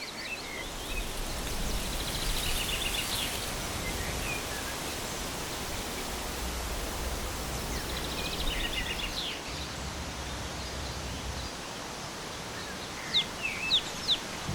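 Outdoor mountain ambience: small birds chirping and trilling over a steady hiss of wind or rushing water. A few sharp, louder chirps come near the end.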